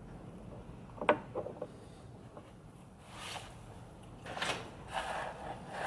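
Workshop handling sounds: a sharp click about a second in and a couple of small knocks, then several short scraping, sliding noises.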